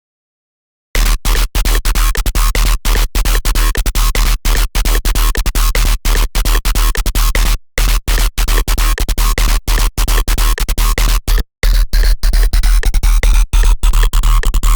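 A Serum wavetable synthesizer patch, built from an image converted into a wavetable, comes in loud about a second in. It is a harsh, noisy electronic sound over a deep sub-bass, chopped by rapid irregular stutters like scratching. There are two short breaks, and sweeping tones appear near the end.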